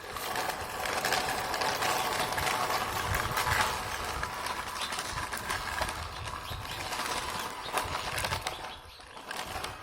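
Small motorised toy mechanism running: a dense, continuous mechanical rattle and whir with many fine clicks, which dies away near the end.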